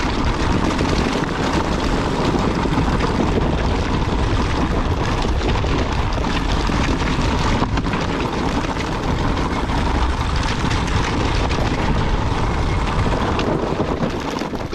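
Motocross bike engine running steadily as the bike is ridden, heard as a dense, noisy drone with a strong low end.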